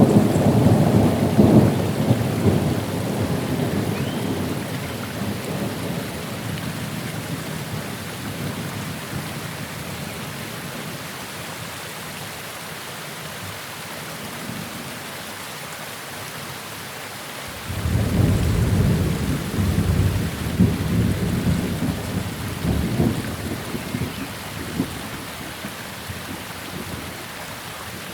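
Thunderstorm: steady rain with two rolls of thunder. The first rumble fades over the opening few seconds, and a second starts suddenly about two-thirds through and rumbles on for several seconds.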